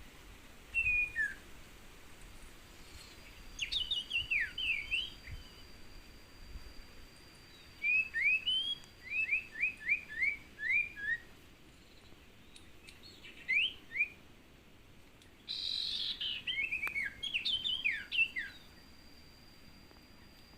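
Common iora (cipoh) calls: several runs of quick, downward-sliding chirps, over a thin steady high tone.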